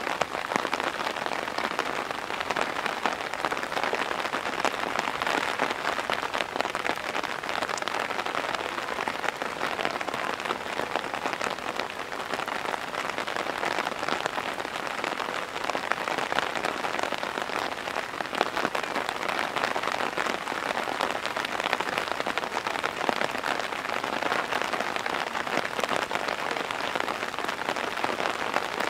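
Heavy downpour: steady rain falling hard, a dense, even patter of drops that does not let up.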